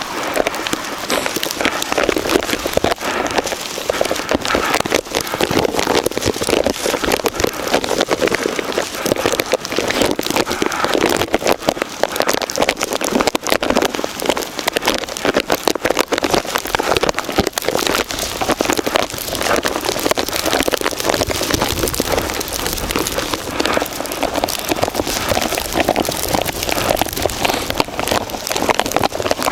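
Strong wind and blowing snow rushing and crackling against the camera microphone, steady and unbroken throughout.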